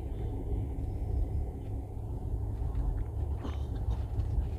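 Passenger train running noise heard from inside the carriage: a steady low rumble, with a couple of faint clicks about three and a half seconds in.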